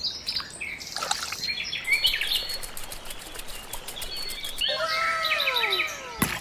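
Birds chirping and calling in quick, varied notes, with a run of falling whistled calls near the end, cut by a sharp click at the very end.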